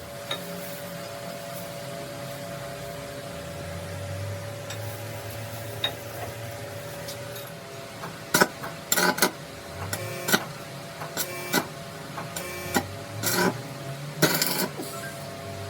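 Workshop sounds: a steady machine hum, then from about halfway a series of irregular sharp metallic clanks and knocks, some in quick clusters, from tools and metal parts being handled.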